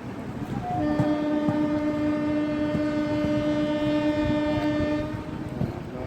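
Train horn sounding one long, steady blast that starts about a second in and stops shortly before the end, over the rumble and clatter of a train.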